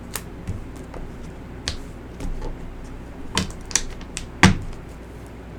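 Oracle cards being handled on a table: a few scattered sharp clicks and taps, the loudest about four and a half seconds in, over a low steady room hum.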